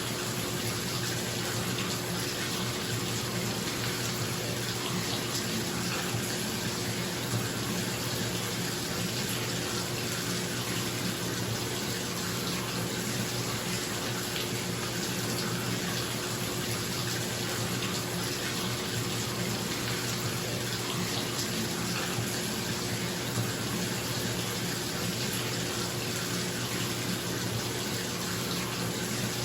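Bathtub tap running steadily into the tub, a constant rush of water, with a bathroom exhaust fan humming underneath.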